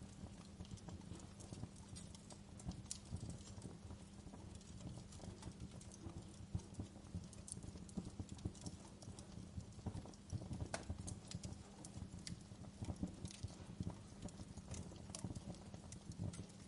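Fireplace fire crackling, with irregular pops and snaps over a steady low rumble.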